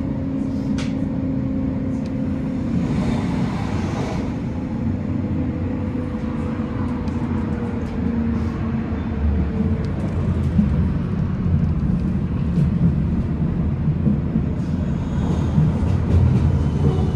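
Tram running along the rails between stops, heard from inside the car: a steady low rumble of wheels on track, with a motor whine that slowly falls in pitch and fades out about ten seconds in, and a few light clicks and rattles.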